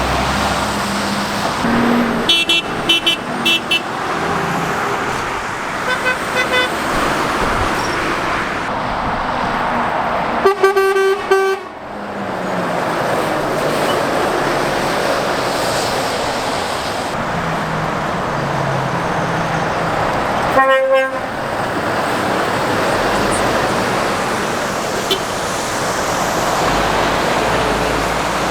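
Steady road noise from lorries and cars passing on a busy trunk road, with vehicle horns sounding over it: a run of short toots a couple of seconds in, fainter short beeps at about six seconds, one longer horn blast at about ten seconds, and a short toot at about twenty-one seconds.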